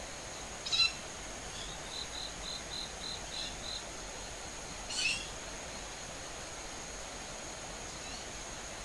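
Unidentified night-calling birds moving overhead at dusk, which the uploader wonders may be juvenile owls. There are two loud harsh, rasping screeches, about a second in and again near five seconds. Between them comes a run of about eight short, high, clear notes at three or four a second, over a steady high-pitched whine.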